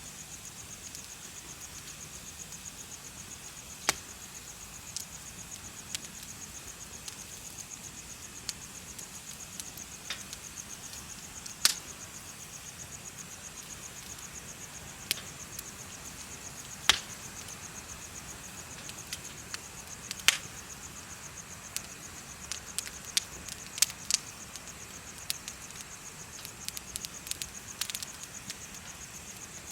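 Crickets chirping in a steady, fast trill, with a bonfire crackling over it in sharp, irregular pops that come more often near the end.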